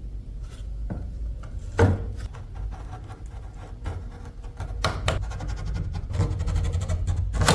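Workshop handling sounds: irregular knocks and clicks of tools and metal being handled over a low rumble, with a sharper knock about two seconds in and a quicker run of clicks near the end.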